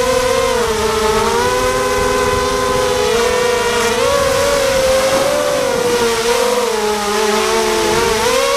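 Quadcopter's electric motors and propellers whining steadily, their pitch rising and falling as the throttle shifts, with wind rumbling on the microphone.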